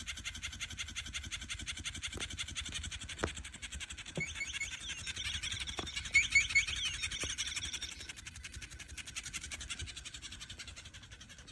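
Many small birds chattering together in a dense, constant twitter, with a run of louder, high chirps from one bird about four to seven seconds in.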